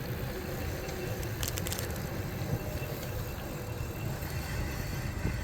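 Steady wind and road rumble from a moving e-bike, with a short cluster of clicks about a second and a half in.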